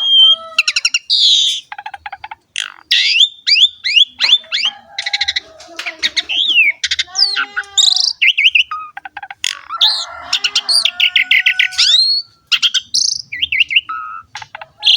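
Asian pied starling (jalak suren) in full, non-stop song: a fast, varied run of whistles, rising and falling glides and rapid clicking rattles, with a harsh chatter about ten seconds in.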